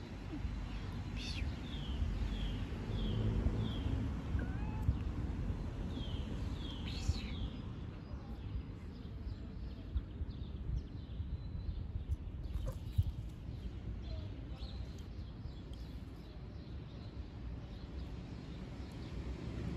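Outdoor ambience with a steady low rumble, and a bird giving a run of short, high, falling chirps about half a second apart during the first seven seconds.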